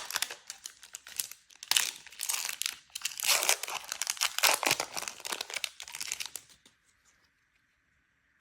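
Crinkling and tearing of a Magic: The Gathering collector booster pack's foil wrapper as it is torn open and handled, stopping about two seconds before the end.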